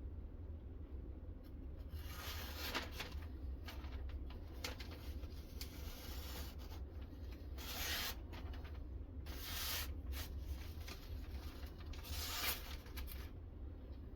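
Half a dozen separate rasping strokes of a freshly sharpened knife blade, each about half a second to a second long and spaced unevenly.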